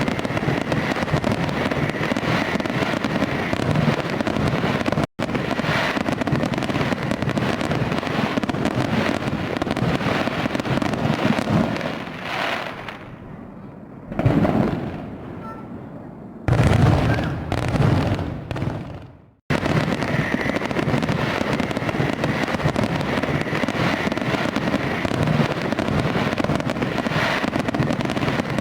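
Fireworks: a dense, continuous barrage of crackling and popping. Midway it thins to a few separate booms that fade away, then the dense crackle comes back abruptly.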